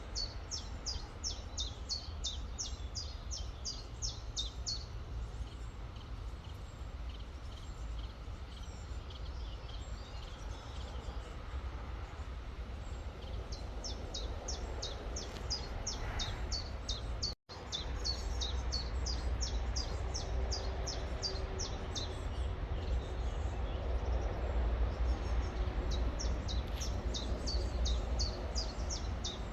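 Songbirds singing high, rapid trills of short descending notes, in several bursts, over the steady rush of a river and a low rumble. The sound drops out for a split second about two-thirds of the way in.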